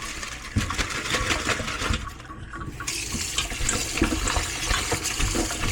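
Water running from a kitchen tap. It eases off for about a second, two seconds in, then runs again.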